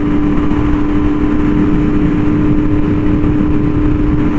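Yamaha R1M's crossplane inline-four running through an SC Project exhaust at a steady cruising throttle. It holds one even engine note without revving.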